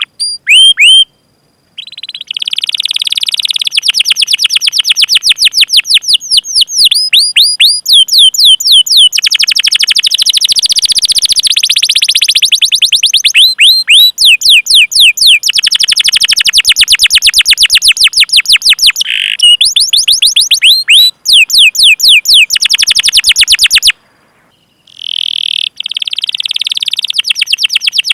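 A domestic canary singing long rolling trills of rapid, repeated sweeping chirps. It pauses briefly about a second in and again near the end.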